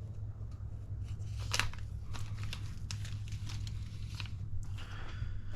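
Small plastic parts bags crinkling and rustling as they are handled, with scattered light clicks, over a steady low hum.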